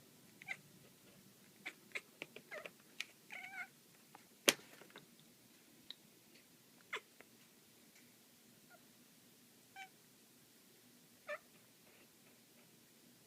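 Domestic cat making a few short chirps and meows while chasing a laser dot, scattered among light taps and clicks, with one sharp knock about four and a half seconds in.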